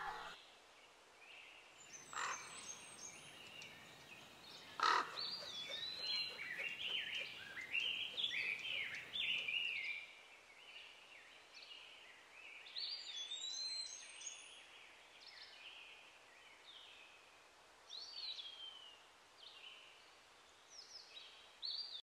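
Songbirds chirping and singing, many short calls sweeping up and down in pitch, thinning out toward the end. Two sharp knocks, about two and five seconds in, the second the loudest sound.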